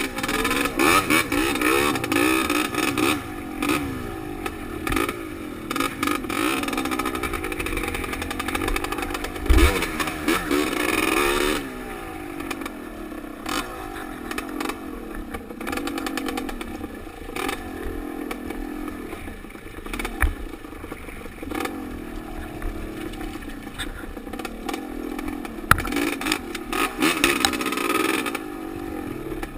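Dirt bike engine heard from a helmet-mounted camera, its revs rising and falling with the throttle on a trail ride, higher and louder for about the first twelve seconds, then easing to lower revs. Scattered clattering knocks over rough ground.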